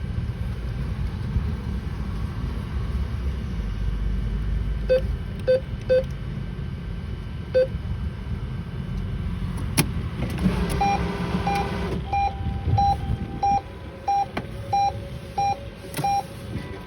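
ATM keypad beeping four times as buttons are pressed, then the machine's mechanism whirring briefly about ten seconds in, followed by a repeating alert beep about every two-thirds of a second. Steady traffic rumble underneath.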